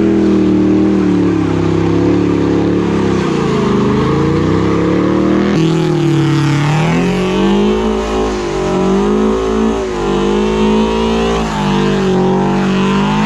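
Car engines revving up and easing off over and over, the pitch rising and falling; a different engine sound takes over sharply about five and a half seconds in.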